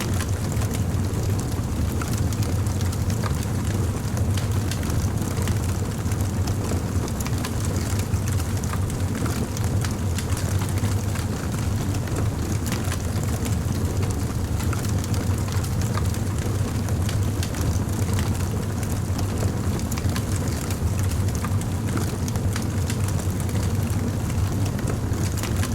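Wood fire crackling, with frequent small irregular pops over a steady low rumble of flames.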